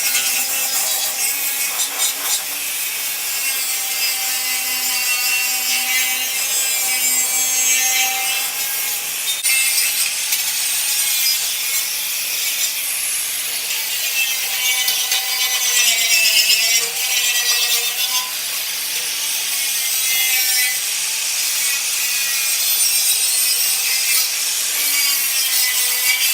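Handheld power grinder scrubbing rust off the steel front bumper and its brackets: a loud, continuous scraping hiss over a motor whine that dips and recovers in pitch as the tool is pressed into the metal.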